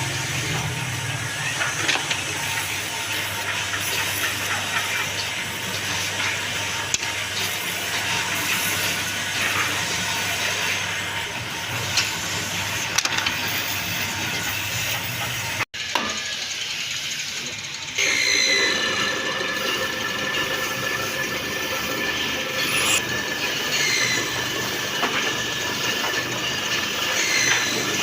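Woodworking workshop machinery running with a steady hissing noise. After a cut about halfway through, a steady high motor whine joins in, with a few short chirps.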